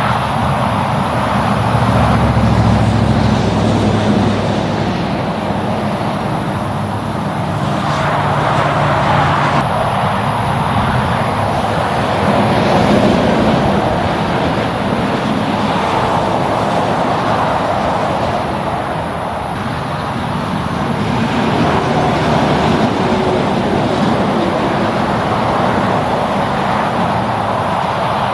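Highway traffic going by: steady tyre and engine noise that swells and fades as vehicles pass. A heavy truck's diesel engine is loudest about two to four seconds in.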